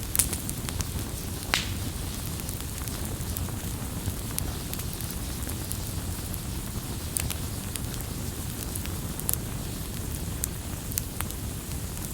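Campfire burning: a steady low rumble with scattered sharp crackles and pops of the wood, the loudest just after the start and about a second and a half in.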